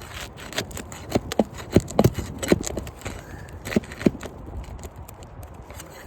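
Metal tool knocking and scraping against asphalt roof shingles while working overdriven roofing nails loose: a run of sharp, uneven knocks over the first four seconds, then quieter.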